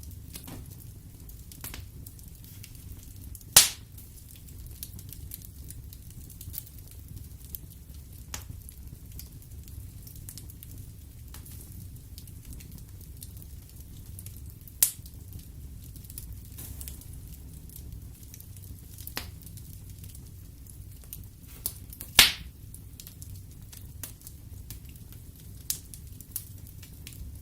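Wood fire burning in a fireplace: a steady low rumble of flames under scattered crackles of burning wood. Two loud pops stand out, one a few seconds in and one about two-thirds of the way through, with a smaller one near the middle.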